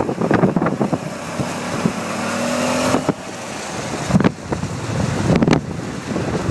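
Strong gusty wind buffeting the microphone, with rumbling flutters and a rushing hiss. A faint hum rises slightly in pitch and stops abruptly about three seconds in.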